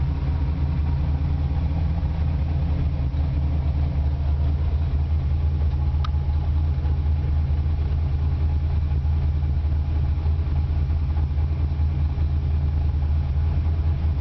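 Ford Mustang engine idling steadily through a Borla aftermarket exhaust, a deep even burble with no revving. A single faint tick sounds about six seconds in.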